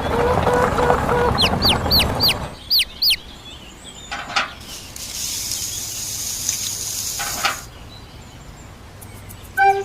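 Fowl-like clucking with a run of about eight short, high chirps in the first few seconds, followed by a faint hiss.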